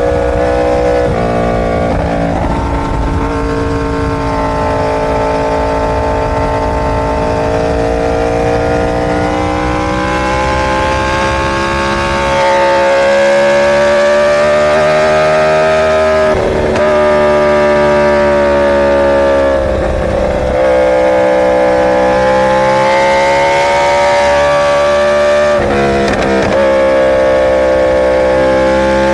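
Inline-four superbike engine running under way, its note holding and slowly rising and falling in pitch, with a few short dips in the note.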